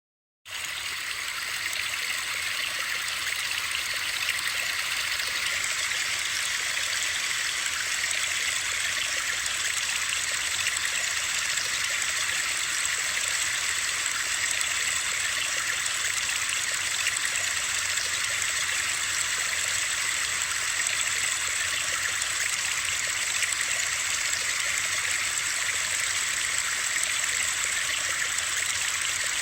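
Steady white noise with a rushing-water character, an even hiss weighted toward the high end with little bass. It starts abruptly about half a second in after dead silence and holds unchanged.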